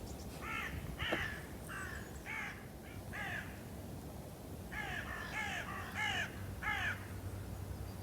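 A bird calling: two runs of short, harsh calls, each call falling in pitch, about five and then, after a pause of over a second, four more.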